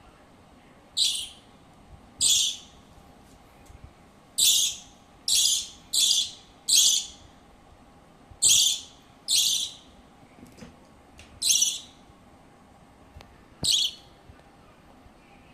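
A pet bird calling in short, harsh squawks, about ten of them, each under half a second and irregularly spaced, with quiet between.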